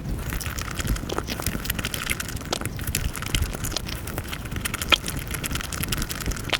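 Eating and chewing sounds sped up many times over, running together into a dense, continuous crackle of tiny clicks over a low rumble.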